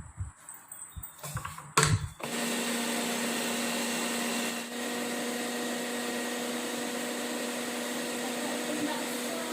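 Electric blender starting after a couple of clacks about two seconds in, then running at a steady speed with an even hum.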